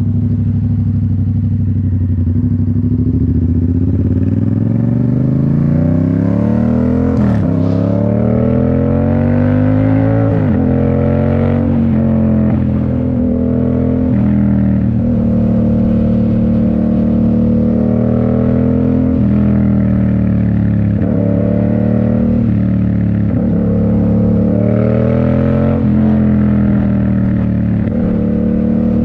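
2019 Yamaha MT-07's 689 cc parallel-twin engine through a Toce full exhaust, under way. It holds steady revs at first; from about four seconds in it climbs through the gears with the pitch dropping sharply at each upshift, then rises and falls with the throttle.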